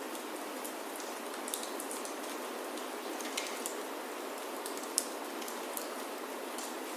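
Steady rain falling on a roof, with scattered sharp pops and ticks from a crackling wood fire; the loudest pop comes about five seconds in.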